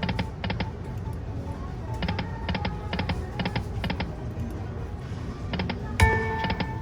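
Lightning Link video slot machine playing out a spin: quick runs of clicking ticks in short groups as the reels land, over the machine's music. About six seconds in comes a sharp hit with a ringing chime as the next spin starts.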